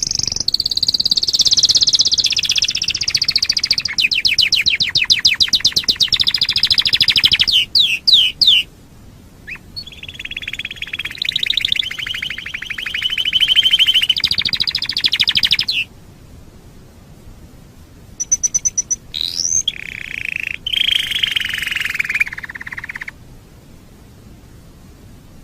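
Domestic canary singing in several long phrases of rapid trills and warbles, with short pauses between them; the song stops a couple of seconds before the end.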